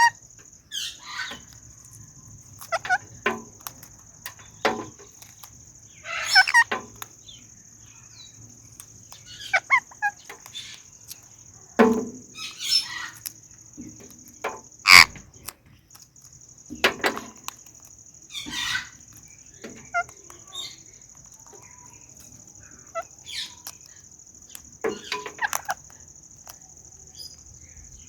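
Indian ringneck and Alexandrine parrots eating guava: irregular sharp clicks and crunches of beaks biting and chewing the fruit, every second or two.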